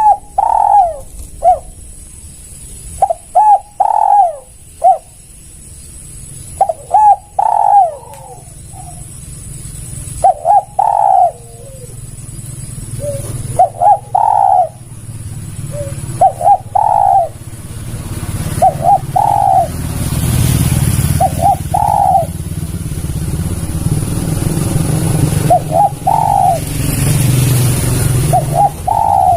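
Spotted dove (tekukur) cooing: short, repeated coo phrases every few seconds. From about halfway through, a low engine-like rumble builds up beneath the calls.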